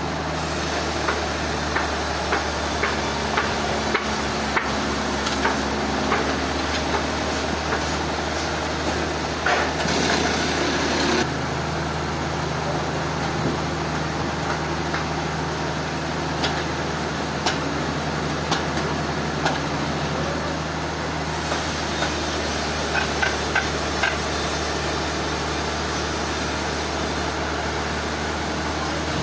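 Sawmill machinery running with a steady low engine hum, and frequent short knocks and clanks throughout. Around ten seconds in, a louder rush of noise lasts for about a second and a half.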